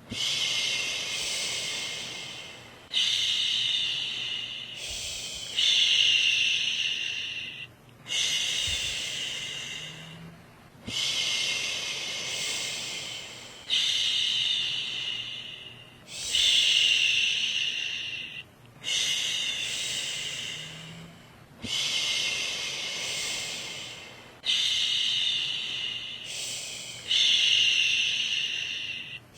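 A woman shushing, a long "shhh" repeated about every two and a half to three seconds, each one starting sharply and trailing off: a rhythmic shushing to soothe a baby to sleep.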